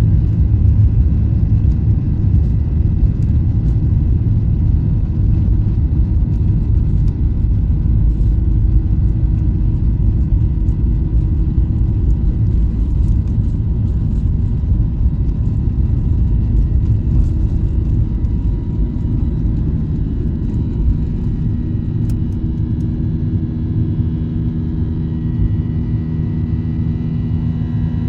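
Cabin noise inside a Boeing 737-800 with CFM56-7B engines under power: a loud, steady low rumble of engine and airflow. Over the last several seconds it eases slightly and a few steady whining tones come in.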